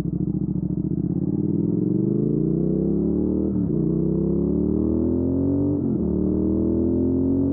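2019 Triumph Speed Twin's 1200 cc 270° parallel-twin engine, breathing through a Weslake Shorty Pro exhaust, accelerating hard through the gears. The pitch climbs, then drops at upshifts about three and a half and six seconds in, and again at the end.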